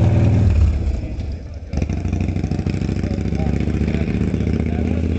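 Motorcycle engines running at idle, steady apart from a brief dip in level about a second in, ended by a single sharp knock, after which the engine sound carries on steadily.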